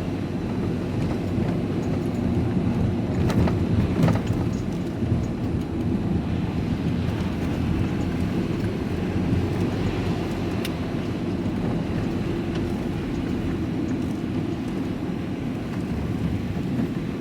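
A lorry's diesel engine running steadily with road noise as the truck drives slowly along a lane, heard from inside the cab, with a few brief clicks about 3, 4 and 11 seconds in.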